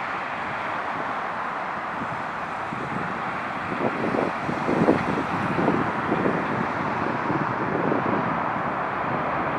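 Steady jet engine noise from a Boeing 737-800's CFM56 engines, heard from the ground, with wind gusting on the microphone from about four seconds in.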